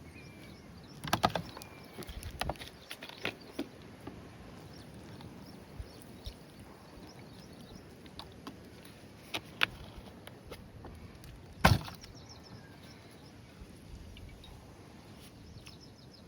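Scattered knocks and clatters, several in quick succession early on and a single loudest knock about twelve seconds in, over faint bird chirps.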